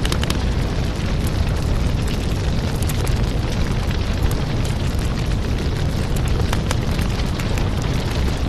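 Wood fire crackling in a fireplace: frequent sharp pops and snaps over a steady low rumble of flames.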